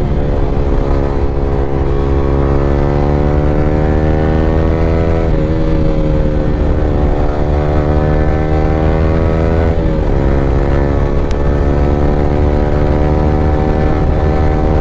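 Yamaha R15 V3's 155 cc single-cylinder engine running through an Akrapovic R9 aftermarket exhaust under way. The exhaust note climbs as the bike pulls, dipping sharply about five and ten seconds in as it shifts up a gear, over a steady low rumble.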